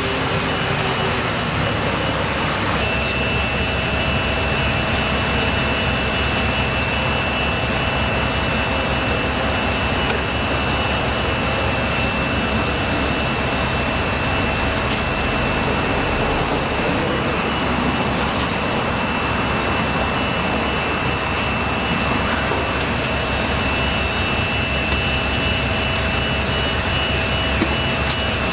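Machinery running steadily with a constant rushing noise; a steady high whine joins in about three seconds in.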